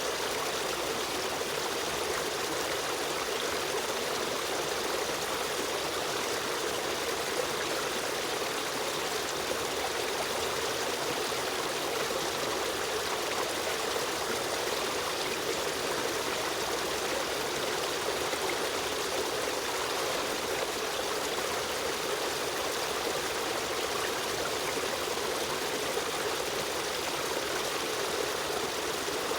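A river stream running steadily: an even rushing of flowing water with a trickling edge.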